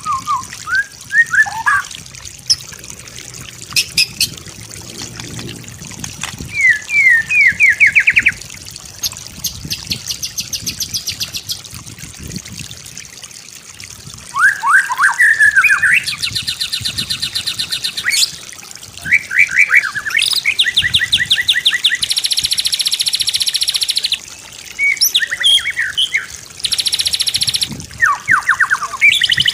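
White-rumped shama singing a varied song: quick rising whistled slurs alternating with long, fast rattling trills of rapidly repeated notes.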